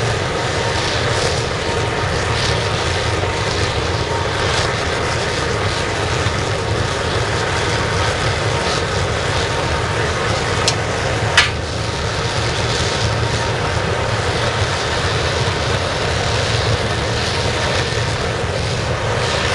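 Waste-oil burner firing a scrapping furnace: a loud, steady rush of flame and air. Two sharp clicks sound a little before the middle.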